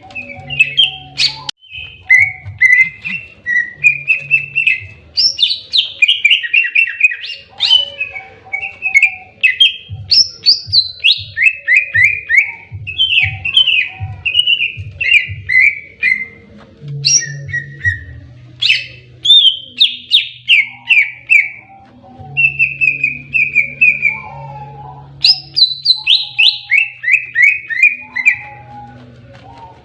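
Cucak ijo (green leafbird) singing its aggressive 'fighting' song: loud, rapid phrases of quick falling whistled notes with chattering between them, repeated throughout. A steady low hum runs underneath.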